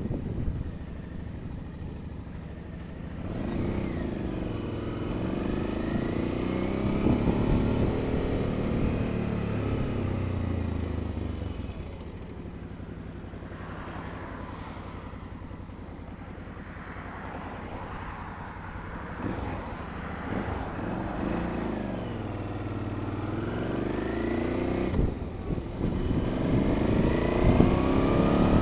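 Motorcycle engine rising in pitch and falling away twice, with a steadier, lower engine note in between.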